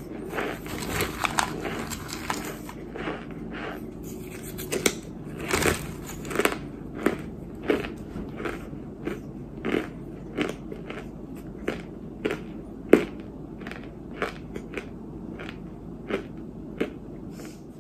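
Close-up chewing of chunks of white clay ('white dirt', kaolin), with irregular crisp crunches about one or two a second as the chunks break between the teeth, the loudest about thirteen seconds in.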